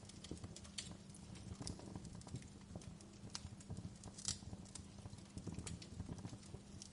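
Wood fire crackling in a fireplace: irregular sharp pops and snaps, the loudest about four seconds in, over a low rumble of the flames.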